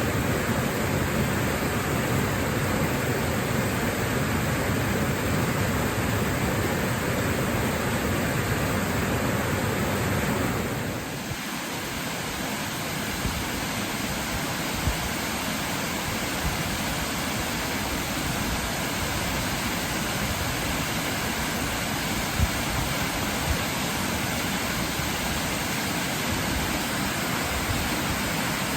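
Waterfall rushing steadily. About 11 seconds in, the rush abruptly becomes a little quieter and thinner in the deep low end, with a few brief splashes standing out afterwards.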